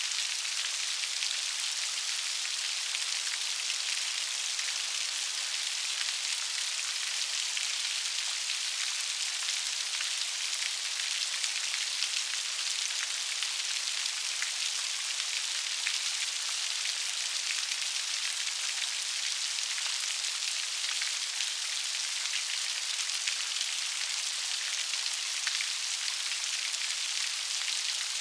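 Steady rain falling, an even hiss of many fine drops pattering on a surface, with no change in strength.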